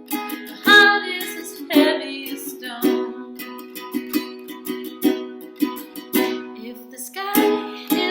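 Solo acoustic song: a plucked string instrument strums steady chords, with a woman's wordless singing about a second in and again near the end.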